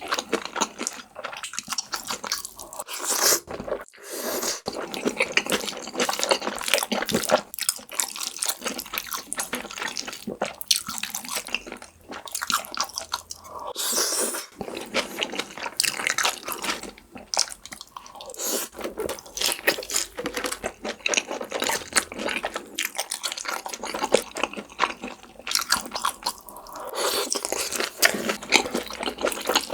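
Close-miked eating sounds: continuous wet chewing and crunching, dense and irregular, from a meal of jjajangmyeon and crispy fried sweet-and-sour pork (tangsuyuk).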